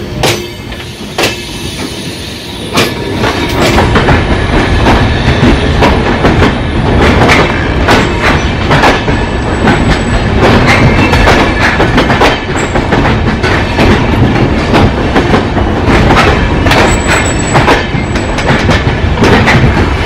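Passenger train coaches running past close by, their wheels clacking rapidly over rail joints, with brief high wheel squeals now and then. It gets much louder about three to four seconds in and stays loud.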